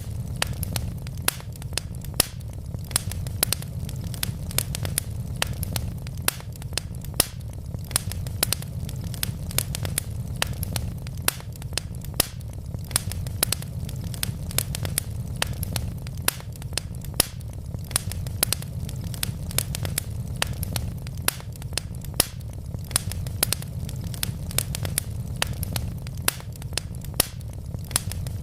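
Wood logs burning in a fireplace: many irregular sharp crackles and pops, several a second, over a steady low rumble of the flames.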